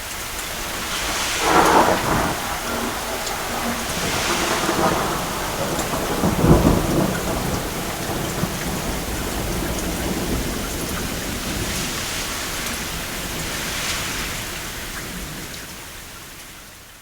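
Steady rain falling, with two rolls of thunder: one about a second and a half in and a deeper, louder one about six seconds in. The whole storm then fades out near the end.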